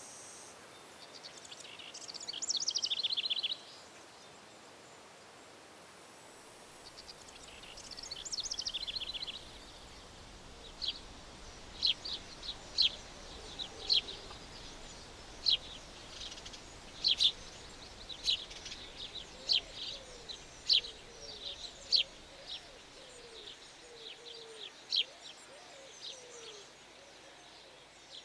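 Songbirds in the countryside: two short, rapid high trills in the first ten seconds, then a run of sharp single chirps repeated about twice a second, with faint lower sliding calls beneath.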